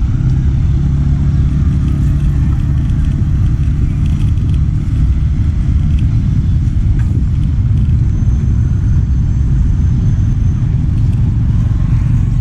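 Steady low rumble of riding through town: wind buffeting the microphone along with vehicle and road noise.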